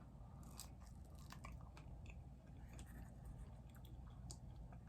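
Faint chewing of food close to the microphone: a scatter of small mouth clicks and crunches.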